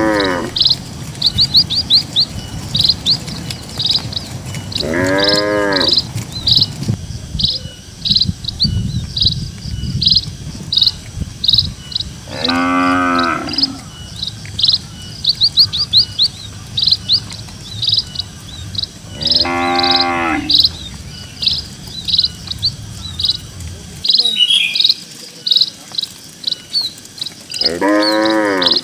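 Cattle mooing five times, several seconds apart, each moo about a second long, rising then falling in pitch. Birds chirp rapidly and without a break underneath.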